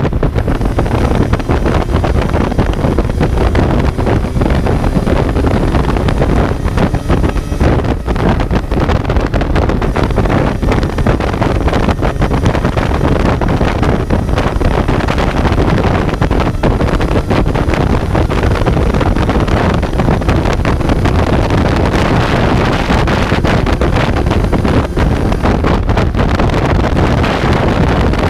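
Kawasaki Z900's inline-four engine running while the motorcycle rides along, with heavy wind buffeting on the microphone.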